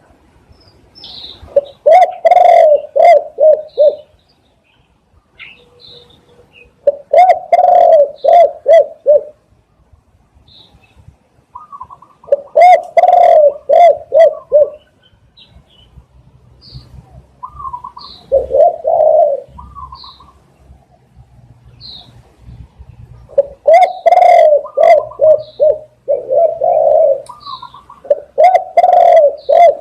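Spotted dove cooing: loud phrases of several quick coos, repeated about six times, with short pauses between. Faint high chirps of small birds come between the phrases.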